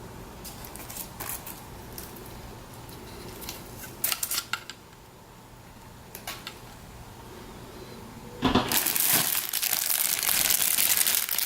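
A few light clicks and taps of resin kit parts being handled, then, about two-thirds of the way in, loud, steady crinkling of a plastic bag being handled.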